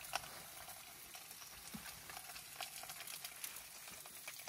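Pork skin frying in a pan over a charcoal burner: a faint, steady sizzle with scattered small crackles and pops.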